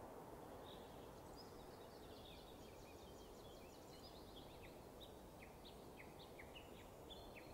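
Faint forest ambience: small birds chirping in quick, short notes over a low steady hiss.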